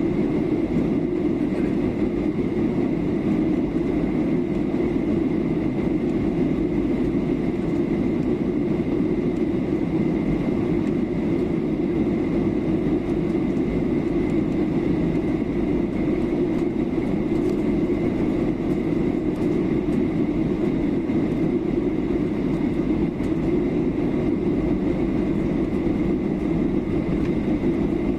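Steady cabin noise inside a Boeing 737-800 airliner in descent: the even rush of airflow and the hum of its CFM56-7B engines, with a faint high whine held on one note.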